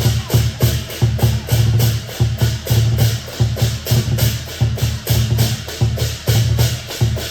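Lion dance percussion: a big drum beaten in a fast, steady rhythm with cymbals clashing along with it.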